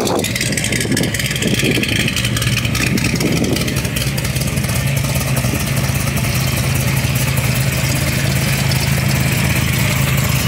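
A car engine idling steadily close by, its hum stepping up slightly in pitch about five seconds in.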